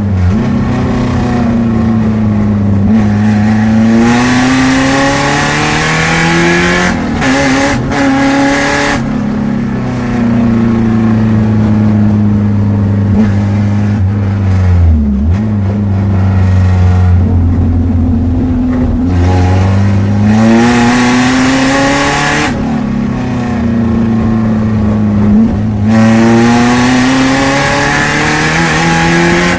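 Renault Clio race car's engine heard from inside the stripped cabin, pulling hard over and over with its pitch climbing, then dropping back sharply at each lift or gear change. Noisier stretches under full throttle alternate with quieter ones off throttle.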